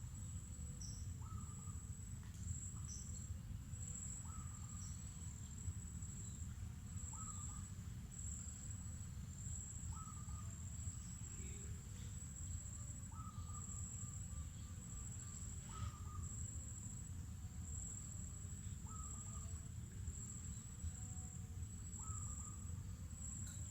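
Insects keeping up a steady, high-pitched pulsing trill while birds give short calls every two or three seconds, over a low steady rumble of background noise.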